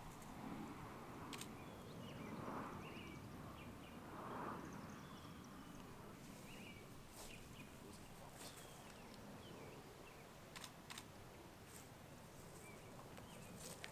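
Faint outdoor background with scattered short bird chirps and a few sharp clicks.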